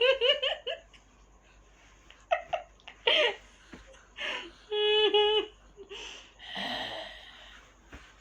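A baby giggling and making short high squeals and coos, with a quick run of rising giggles right at the start and a held coo about five seconds in.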